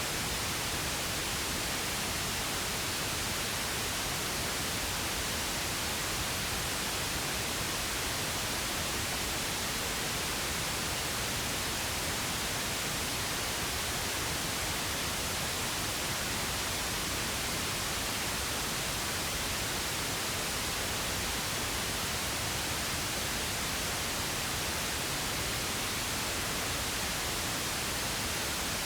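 Steady pink noise: an even, unchanging hiss across the whole range, with no tones or breaks.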